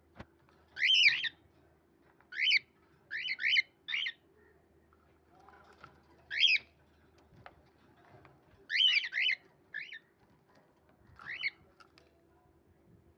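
Pet bird calling: about ten short, pitched calls with pauses between them, several coming in quick pairs.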